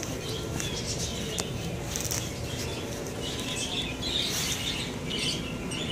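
Birds chirping in scattered short calls over a steady low background hum.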